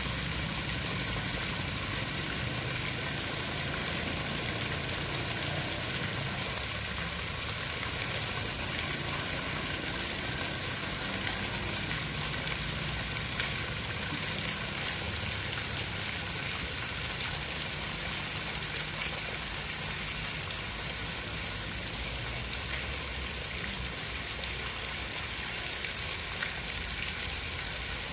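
Steady water sound: an even, unbroken hiss with a low rumble underneath.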